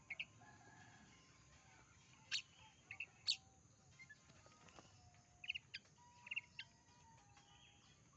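Oriental magpie-robin (kacer) singing: scattered short, sharp chirps and whistled notes, a few loud ones about two to three seconds in and a quick cluster past the middle, over a faint background.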